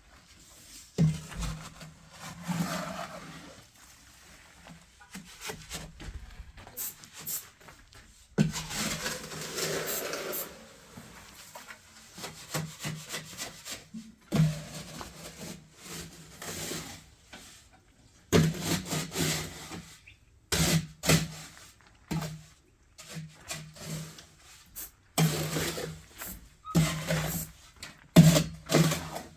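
Irregular rough scraping or rubbing strokes, each lasting a second or two, with short pauses between them.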